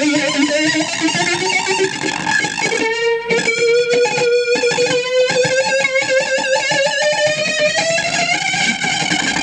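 Homemade one-string electric diddley bow, hammered on and played through an amplifier: a wavering, buzzy note that slides slowly upward, with a few sharp struck attacks about three to five seconds in.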